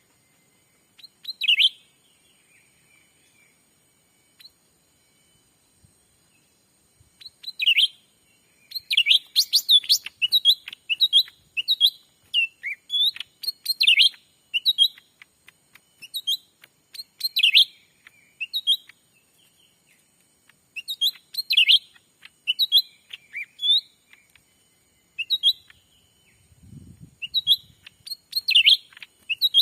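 Cucak ranting birds calling in short, sharp, high chirps. There is one call early, then after a few quiet seconds a long run of rapid repeated chirps with brief pauses, as used to lure wild birds. A short low rustle or thump comes near the end.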